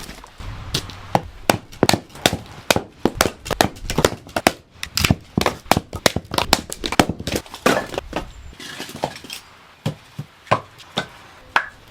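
Split firewood being loaded: pieces of wood knocking and clunking against each other in a quick, irregular run, thinning out to single knocks after about eight seconds. A low rumble underneath stops at the same point.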